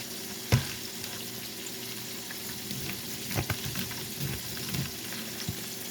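Salmon frying in oil, a steady sizzle, with a knife knocking on a cutting board while broccoli is cut: one sharp knock about half a second in, then a few lighter knocks later on.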